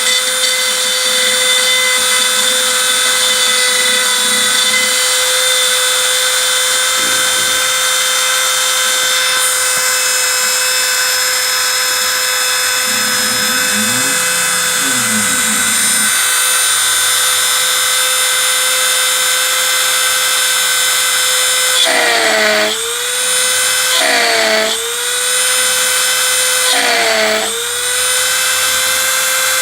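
Spindle of a homemade CNC router whining steadily while its bit machines a 3 mm aluminium plate dry, without coolant, with a high hiss of cutting. In the last several seconds the whine dips briefly in pitch and loudness several times, the spindle slowing under load as the bit plunges into the metal to drill holes.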